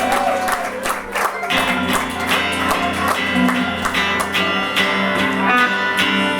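Live rock band playing the closing instrumental stretch of a song, with electric guitars strumming loud, sustained chords over bass and drums.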